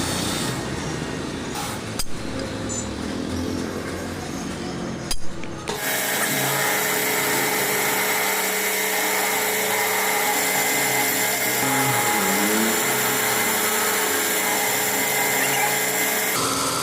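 A power tool runs with a steady high whine for about ten seconds, starting about six seconds in. Before it there is rougher background noise with two sharp knocks.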